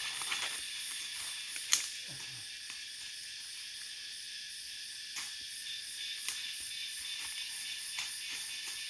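Steady high-pitched chorus of forest insects such as crickets or cicadas, with a few sharp clicks scattered through it.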